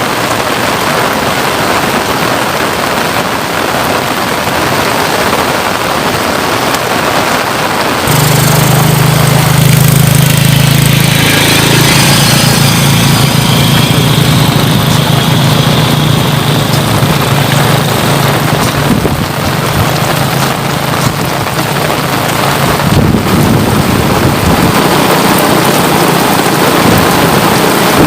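Steady rain falling. About eight seconds in, a motor engine comes in over the rain, getting louder and then passing, and runs for about fifteen seconds before it fades back into the rain.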